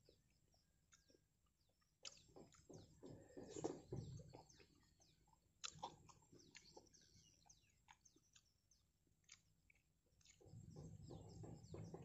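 Faint close-up chewing and biting of fried snacks off a skewer: soft, irregular crunchy clicks, busiest in the first half and again near the end, with one sharper click about halfway through.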